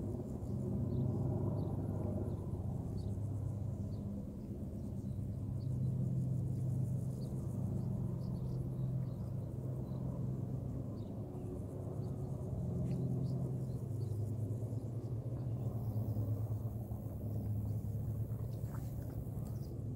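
Helicopters and a high-flying relay plane covering a bike race, a steady low drone of rotors and engines overhead that swells and fades every few seconds.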